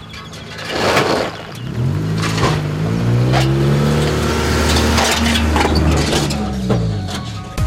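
Engine of a lowered Honda Civic hatchback pulling up in pitch, holding, then easing off as the car drives past. There is a brief rush of noise about a second in.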